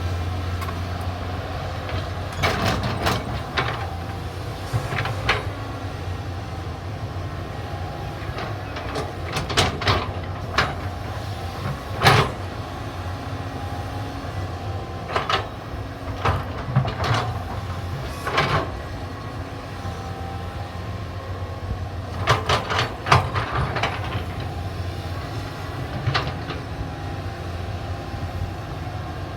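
Caterpillar 320D hydraulic excavator at work, its diesel engine running steadily under load, with sharp clanks every few seconds.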